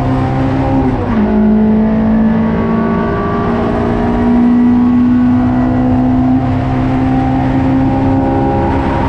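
Toyota Sprinter Trueno race car engine under load on track: its note drops sharply about a second in, as on an upshift, then climbs steadily for several seconds as the car accelerates.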